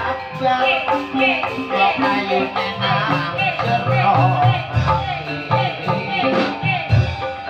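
Live ebeg accompaniment music in the dangdut kreasi style: a band plays melodic instruments over low drum strokes, with a singing voice.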